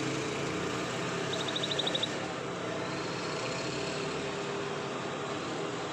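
Domestic canary singing: one quick, high trill of about nine rapid notes, lasting under a second, about a second and a half in. A steady low rumble runs underneath throughout.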